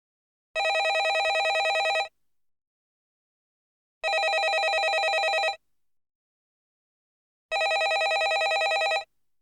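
Landline telephone ringing: three rings of about a second and a half each, with about two seconds of silence between them, each ring a fast warbling trill.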